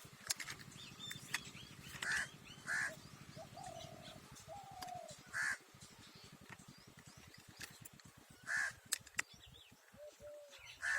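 A bird giving short harsh calls about five times, spaced a few seconds apart, over a few light clicks and taps of plastic toy car parts being fitted together.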